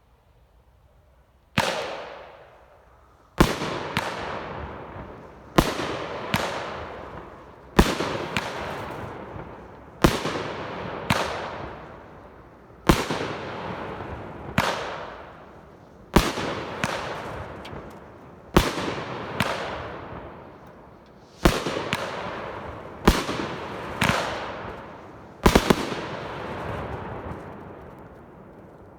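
A 200-gram firework cake firing its shots one after another: a sharp, loud bang about every one to two seconds, sometimes two close together, each fading out over a second or two. The shots begin about a second and a half in.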